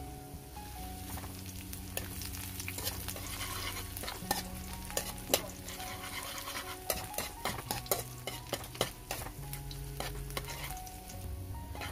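Chopped garlic sizzling in hot oil in a steel wok while a metal ladle stirs it, with many sharp clicks and scrapes of the ladle against the pan.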